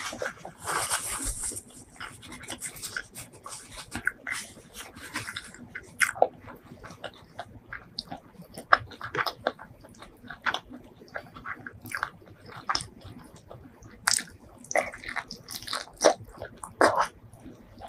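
Close-miked eating sounds: wet chewing and lip smacks as spicy chicken leg curry is eaten, with many sharp mouth clicks scattered irregularly and a stretch of hiss in the first few seconds.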